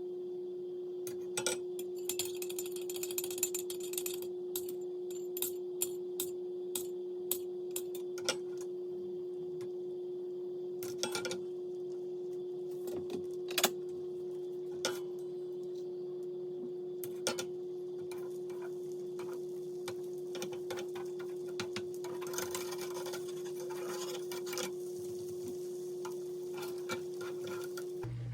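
Kitchen utensils and dishes clinking and knocking now and then, over a steady low hum that stops abruptly near the end. There are two short spells of rustling or scraping, one a couple of seconds in and one about three-quarters of the way through.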